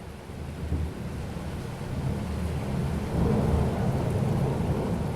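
Thunder rumbling deep and low, swelling over the first few seconds and staying strong, over steady rain.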